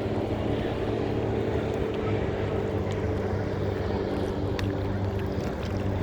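Sailboat's engine running steadily under way, a constant low drone with wind and water hiss over it.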